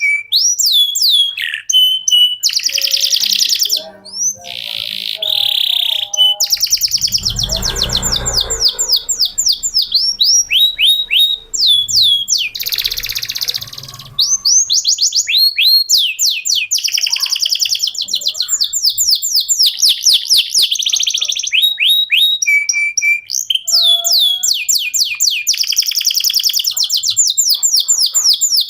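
Male canary singing a long, nearly unbroken song of fast trills: rapid runs of falling whistled notes, rolls and short buzzy phrases with hardly a pause. About a quarter of the way through, a low rumble sounds beneath the song for a couple of seconds.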